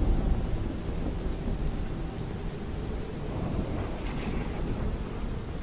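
Steady rain with a low rumble of thunder, loudest at the start and slowly easing.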